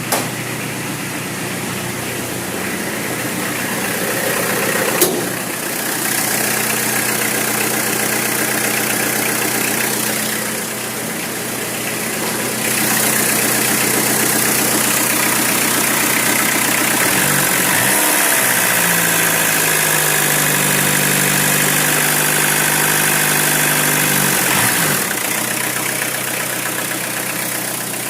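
Peugeot 405's 1.9-litre diesel engine idling while still cold after a cold start. There is a sharp click about five seconds in, and the engine is louder for a long stretch in the middle.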